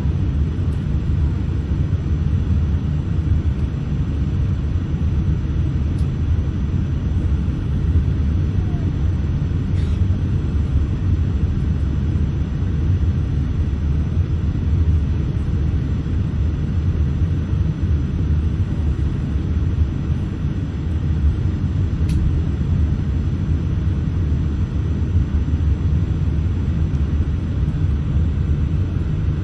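Steady low rumble inside the cabin of a Boeing 787-8 taxiing, its Rolls-Royce Trent 1000 engines at idle thrust, with a few faint ticks.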